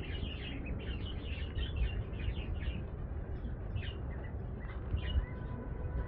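Small birds chirping in many quick, short high calls over steady background noise. A faint steady whistle-like tone comes in about five seconds in.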